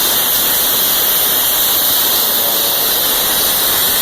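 Steady, loud rushing hiss, strongest in the high treble, with no distinct tones or knocks.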